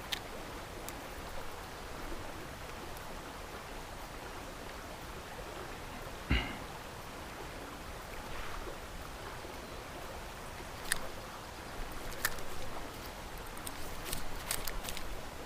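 Steady rush of a flowing creek, with a single thump about six seconds in and scattered clicks and knocks in the second half.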